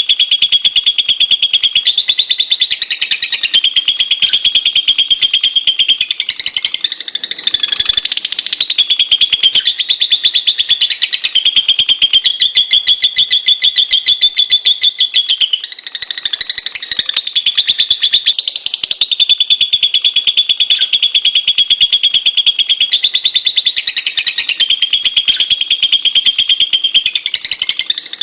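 Lovebird chattering: a continuous, high-pitched trill of very fast repeated notes that shifts in pitch every few seconds, easing briefly twice.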